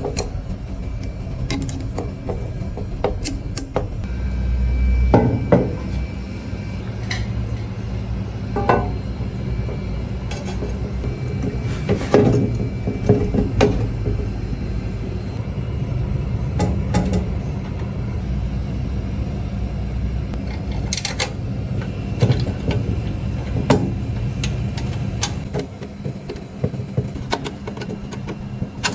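Irregular metallic clinks and knocks of scale parts being handled and fitted, over a steady low hum.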